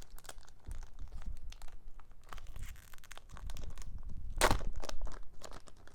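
Pokémon booster pack foil wrapper crinkling and trading cards being handled in rapid short rustles, with one louder crunch about four and a half seconds in.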